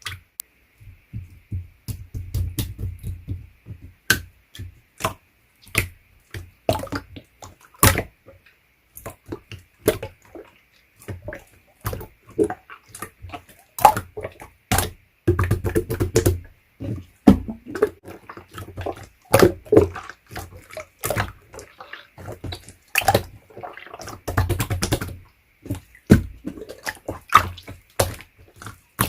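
Chewy slime being squished, stretched and folded by hand: irregular sharp clicks and pops, with stretches of soft low squelching in between.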